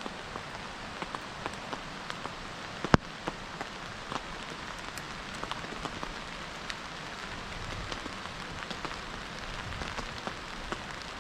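Rain falling on a tarp overhead: a steady hiss dotted with small drop taps, and one sharper tap about three seconds in.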